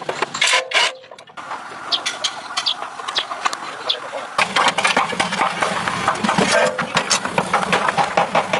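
An engine starts about four seconds in and then runs steadily, with a rapid ticking over its hum.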